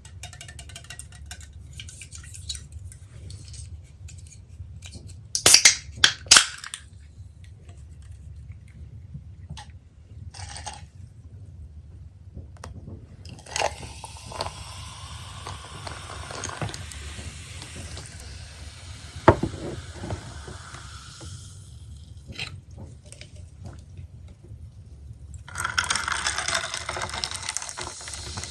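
Close-miked eating sounds of pepperoni pizza being chewed, wet mouth sounds among them, with a few sharp loud clicks about five to six seconds in and a louder noisy stretch near the end.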